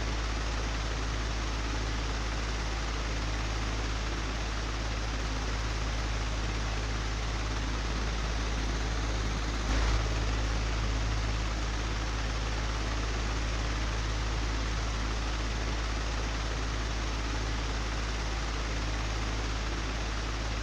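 Old, broken electric fan running steadily: a deep hum under an even airy whoosh, with one brief bump a little under halfway through.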